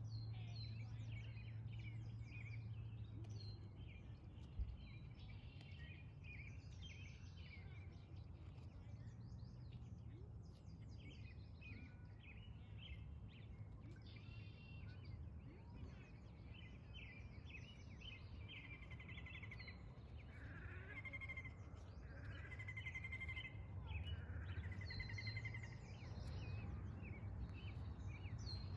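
Several small songbirds chirping and trilling over a low steady hum, with a single sharp click about four and a half seconds in.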